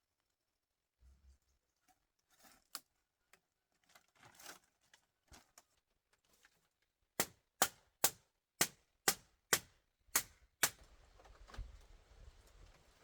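A run of about eight sharp knocks, roughly two a second, in the middle, after scattered lighter clicks and rustling; a steady low hiss sets in near the end.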